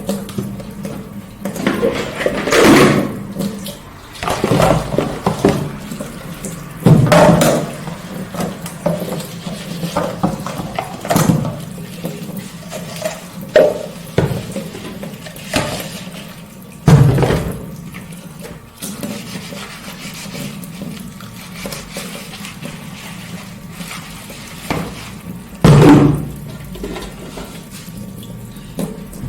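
Kitchen tap running into a sink while dishes are hand-washed, with irregular louder splashes and clatters of crockery every few seconds.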